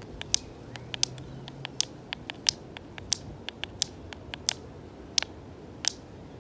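Rocks struck together as percussion, giving sharp clicks. The strongest hits keep a steady pulse of about three every two seconds, and quicker, lighter clicks are improvised in between.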